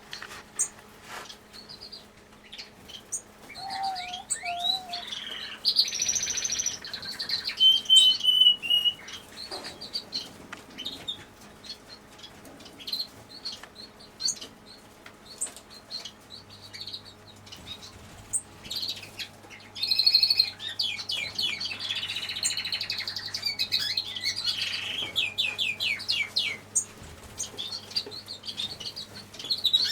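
A flock of small aviary birds chirping and calling over one another in quick, overlapping notes, over a faint low steady hum.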